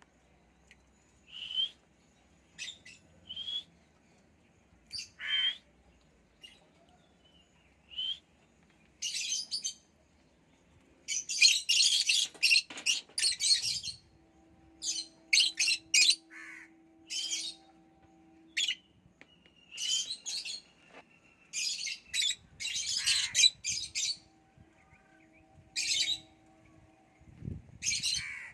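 Pet lovebirds chirping and squawking in short, high-pitched bursts: scattered single calls at first, then busy flurries of calls through the middle and again later on.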